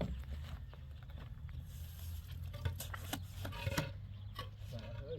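A few scattered, sharp knocks and clicks, about five of them bunched in the middle, over a low steady rumble.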